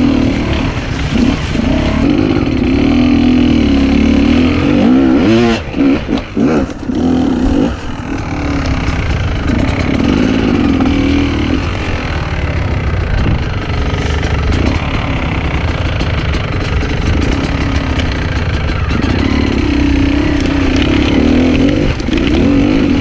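Enduro dirt bike engine running under constantly changing throttle, its revs rising and falling. About six seconds in the throttle is briefly chopped and blipped, and the pitch swoops down and up.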